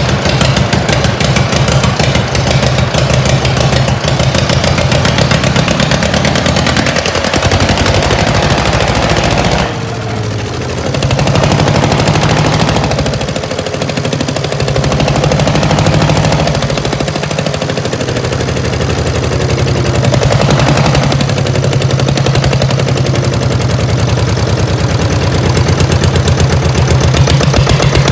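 Massey baler's Armstrong Siddeley diesel engine running with a rapid, even firing beat; its loudness dips briefly and picks up again a few times.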